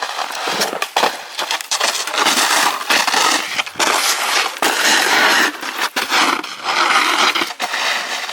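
Irregular crunching and scraping in snow and ice, loud and close, with no steady rhythm.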